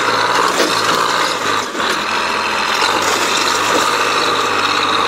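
Heavy machinery running: a steady engine hum under loud, continuous mechanical rattling and clanking, with a brief drop about a second and a half in.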